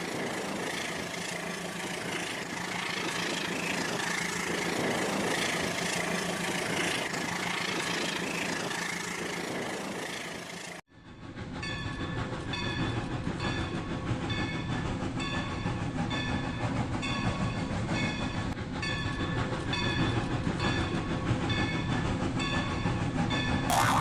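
Rail King toy train running on its track, with a steady mechanical running sound. About eleven seconds in, the sound cuts off abruptly and returns as an evenly repeating clatter, with a short sharp sound near the end.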